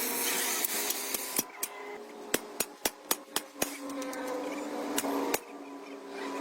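Hammer strikes on metal: a quick run of about six sharp blows, roughly four a second, then two more near the end, over a steady hum.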